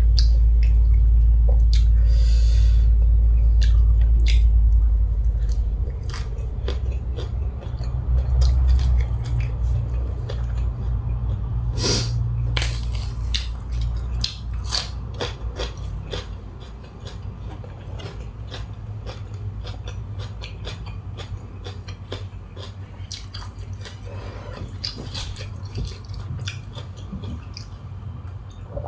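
A person chewing and eating close to the microphone, with many short irregular clicks from mouth and food, while eating a spicy grilled-beef salad. A loud low rumble is heard for the first five seconds, then stops.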